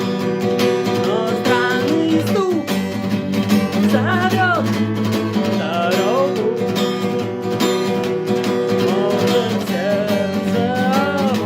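Acoustic guitar strummed with a thick pick in a steady, even rhythm of chords.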